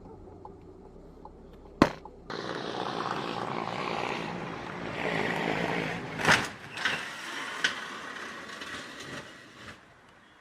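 Car road noise: a low rumble, a sharp click, then a sudden change to louder, hissy driving noise with a few sharp knocks around the middle before it fades.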